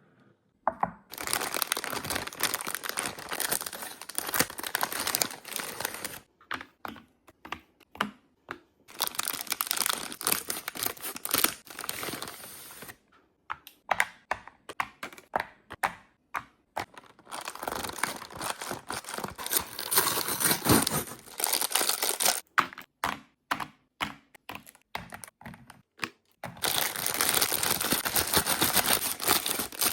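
Plastic snack and candy wrappers being crinkled and torn open in four long stretches, with runs of short, sharp taps and clicks in between.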